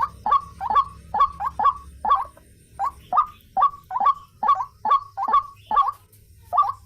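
White-breasted waterhen calling: a fast run of short, harsh repeated notes, about three a second, broken by a brief pause near the middle and another near the end.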